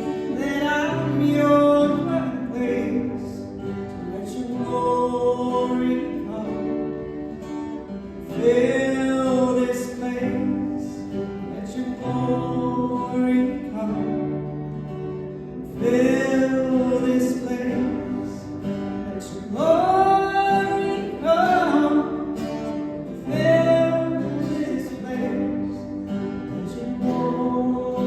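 Worship song played by a band: a voice singing long phrases over acoustic guitar.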